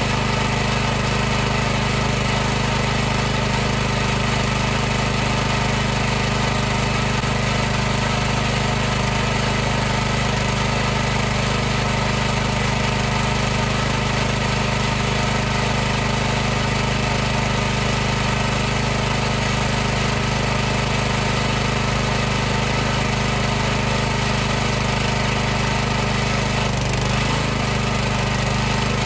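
High-pressure washer running steadily: the pump's motor hum with a constant hiss over it, and a brief wobble in pitch near the end.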